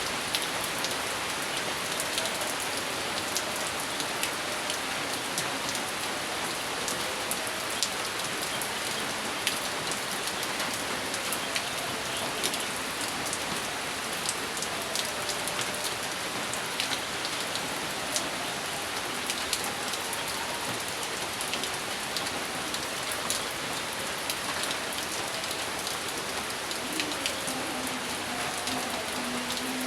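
Steady rain falling on a hard surface, a constant hiss with many sharp individual drop hits on top.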